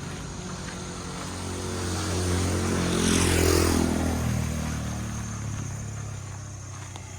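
A motor vehicle driving past: its engine grows louder over the first few seconds, peaks about halfway through, then fades away with a slight drop in pitch.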